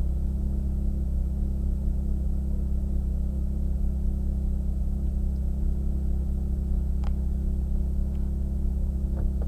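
Ferrari F430 Spider's V8 engine idling steadily while the car stands still, heard from the open-top cockpit.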